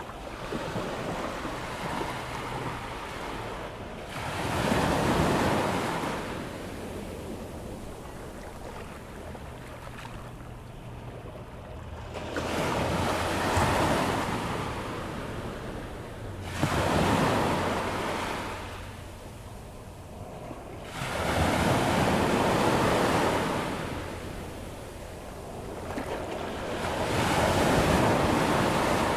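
Ocean waves breaking on a sandy beach as the tide comes in, the surf rising and falling in five swells, about one every four to five seconds, with some wind on the microphone.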